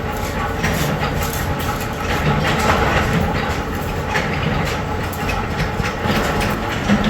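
Metalworking machinery running steadily in a workshop, with a low hum and irregular metallic clatter and knocks.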